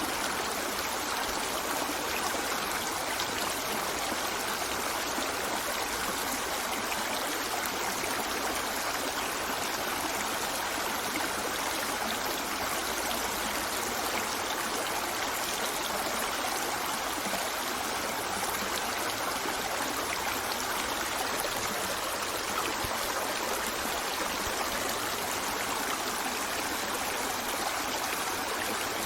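A stream flowing steadily: an even, unbroken rush of water with nothing else standing out.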